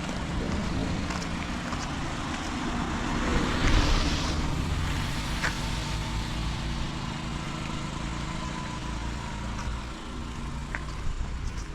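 Steady rain hiss, with a car passing on the wet road about three to four seconds in, its tyres hissing louder and then fading.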